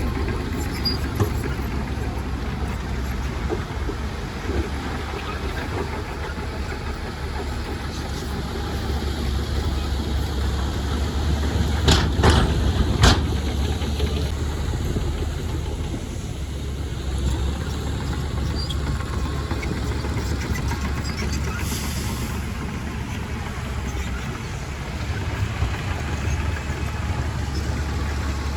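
Heavy diesel engine of earthmoving machinery running steadily with a deep low drone. Two sharp metallic knocks come about 12 and 13 seconds in, and a short hiss about 22 seconds in.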